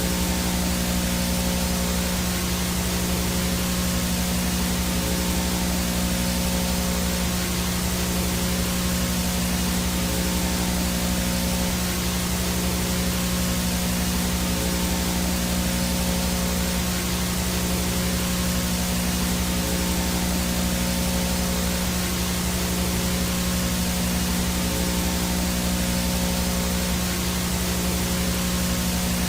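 VHS static noise: a steady hiss with a low electrical buzz underneath.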